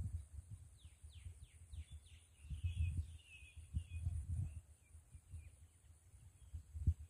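A wild bird calling: a run of about five quick falling notes, then a short warbling chatter, over intermittent low rumbling.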